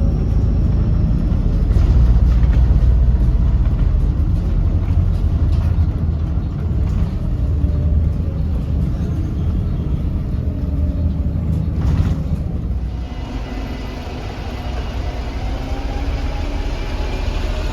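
Volvo B7RLE bus with its Volvo D7E diesel engine running, a loud low rumble broken by a few rattling knocks. About two-thirds of the way through it eases off and a faint high whine comes in.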